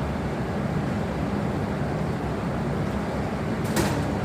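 Steady low rumble of a Tohoku Shinkansen train at the station platform, with one short click near the end.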